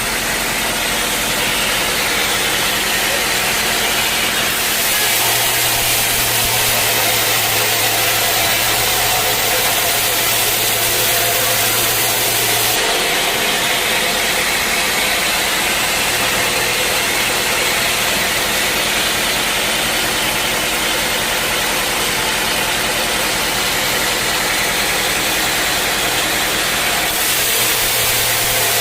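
Sawmill machinery running steadily: the saw and its drive motor make a continuous loud din. The tone shifts suddenly a few times, about four seconds in, near the middle and near the end.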